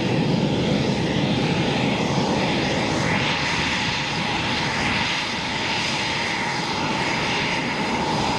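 Jet fighter engine running, a steady loud rush with a steady whine and slow swells in the rushing noise.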